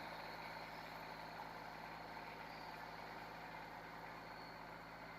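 Tractor engine running steadily, heard faintly.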